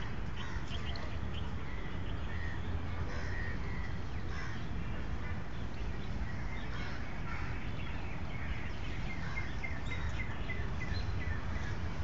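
Small birds chirping in short, scattered calls, with a quick run of repeated chirps about three-quarters of the way through, over steady low background noise.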